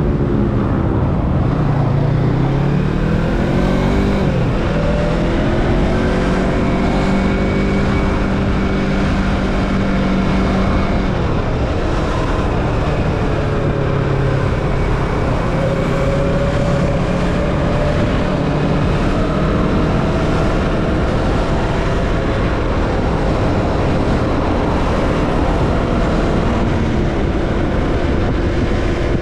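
Yamaha MT-25's 249 cc parallel-twin engine through an Akrapovic slip-on exhaust with its silencer fitted, heard on board while riding. The revs climb for a couple of seconds near the start, hold steady, then settle lower about eleven seconds in and stay there, with a steady rush of wind and road noise underneath.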